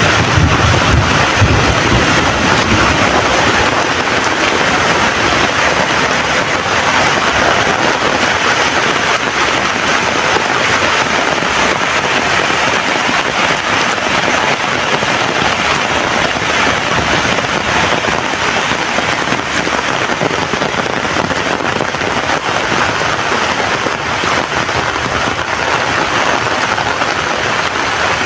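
Heavy rain falling steadily, an even loud hiss. A low rumble sounds in the first couple of seconds and then fades.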